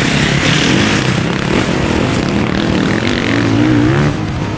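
Motorcycle engines running and revving, their pitch rising and falling with the throttle.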